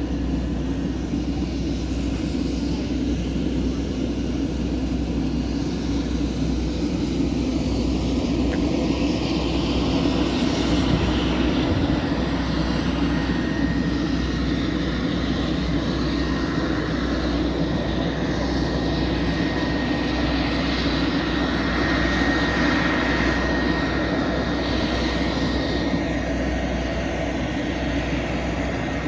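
Aircraft engines running steadily, swelling a little twice, with a thin steady whine joining about halfway through.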